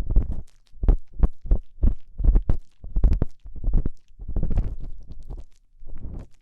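An ear-cleaning tool scraping and rubbing inside a binaural microphone's ear: short, irregular strokes about two or three a second, each with a deep rumble from contact with the microphone, running into a longer, denser scrape a little past the middle.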